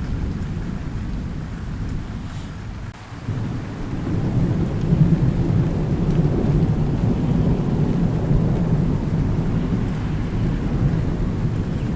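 Thunder rumbling low and long over steady rain. The rumble drops away briefly about three seconds in, then swells again and keeps rolling.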